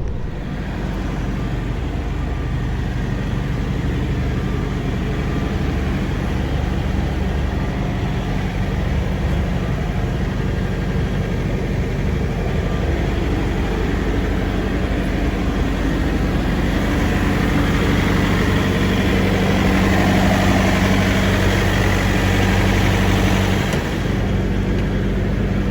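Semi truck's diesel engine running steadily with a low hum, a little louder about two-thirds of the way through.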